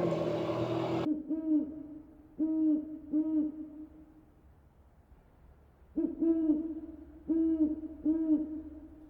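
An owl hooting in two bouts of about three low hoots each, a few seconds apart. A louder, steadier sound cuts off about a second in, just before the hoots begin.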